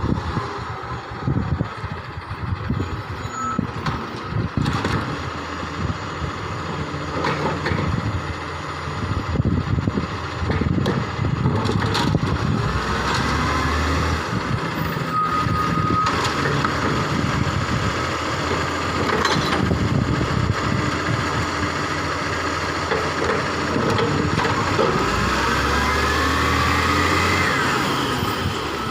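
Garbage truck running and working its bin-lifting hydraulics. The engine rises twice while a whine glides up and down, and a short steady beep sounds about halfway, with a few metallic clanks.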